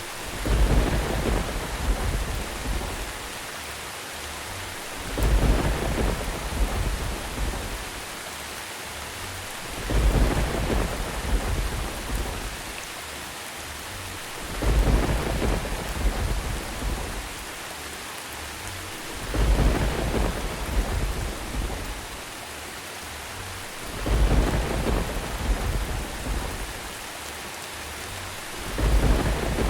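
Thunderstorm recording: steady rain with a low rumble of thunder that comes back about every five seconds, seven times, each one loudest at its onset and fading over a couple of seconds. The even spacing is that of a repeating loop.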